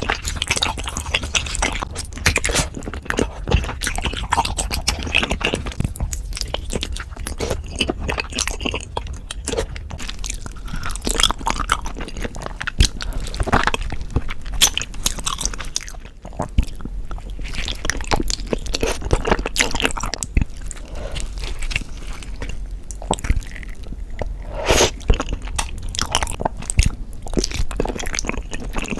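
Close-miked chewing and biting of beef feet, with many irregular sharp crunches and clicks.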